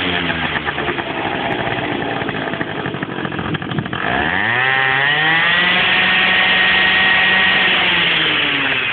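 Small engine with its exhaust running rough and low, then revved hard about four seconds in. It holds high revs for a few seconds and drops back near the end.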